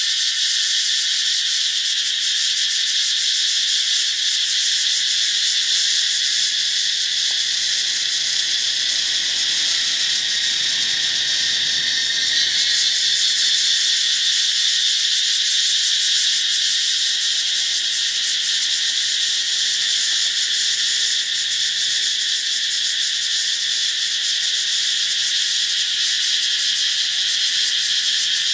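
Loud racket of a katydid chorus: a steady, unbroken high-pitched buzzing drone with no pauses.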